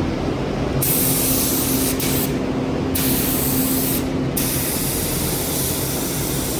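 Paint spray gun hissing as primer-sealer is sprayed onto plastic trim, in three spurts with short breaks between, over a steady low hum.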